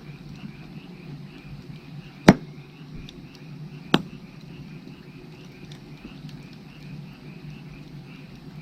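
Firewood burning with two sharp pops, about two seconds in and again a second and a half later, over steady, evenly repeating chirping of frogs.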